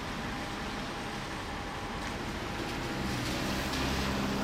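MTR M-Train electric train moving slowly out of the depot, its low motor hum growing louder about three seconds in, over a steady background hum with a thin high tone.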